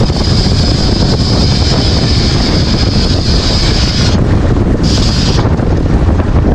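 Loud wind buffeting the microphone over a deep rumble, with a steady high hiss that drops out about four seconds in and comes back briefly near five seconds.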